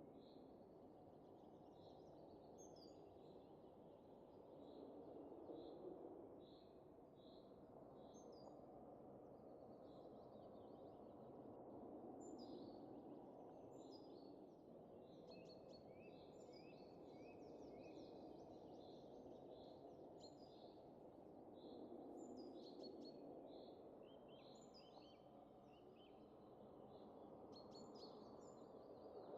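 Faint ambience of a low wind rush that swells and eases every several seconds, with small birds chirping over it. The birds first give an even series of short repeated notes, then denser overlapping chirps from about halfway.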